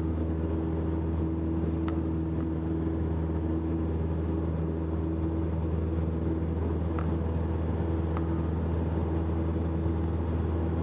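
Cessna 172's piston engine and propeller running steadily at full takeoff power in the climb-out, an even drone heard from inside the cockpit.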